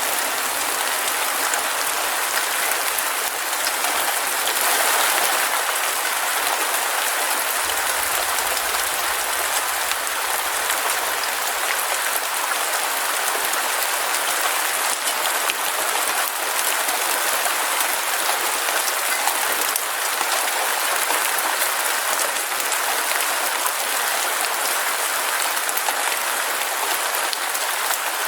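Heavy rain falling steadily, a dense even hiss made up of countless fine drop patters.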